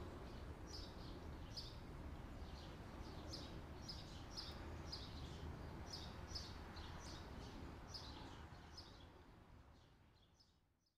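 A small bird chirping over and over, short high chirps one or two a second, over a low steady hum; it all fades out near the end.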